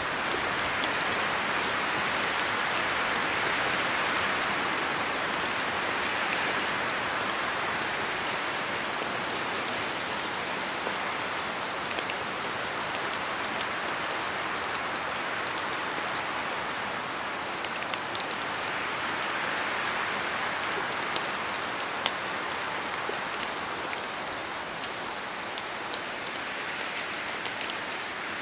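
Steady rainfall: a continuous hiss of rain with scattered sharp drop ticks. The hiss swells and eases slowly, fuller around a few seconds in and again about two-thirds of the way through.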